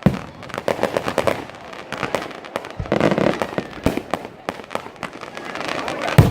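Fireworks exploding overhead: a loud bang at the start and the loudest one near the end, with quick pops and crackling in between.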